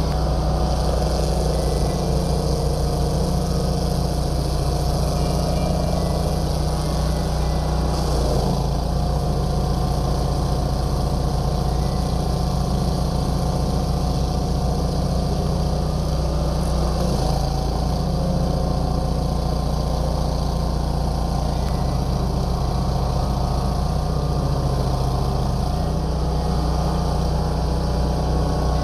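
A heavy forestry machine's engine running steadily, a constant low hum.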